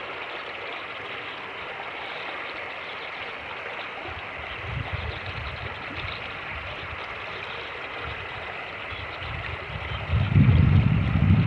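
Fast-moving creek running steadily. Low rumbling buffets of wind on the microphone come in about halfway and grow loudest near the end.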